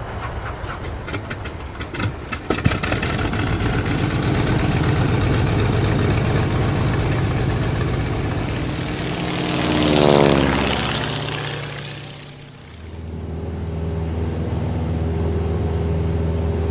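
Aircraft engine sound effects: an engine starting with a quick run of sharp clicks in the first few seconds, then running steadily. About ten seconds in, an aircraft passes with its pitch falling as it goes by, and after a brief dip a steady engine drone takes over.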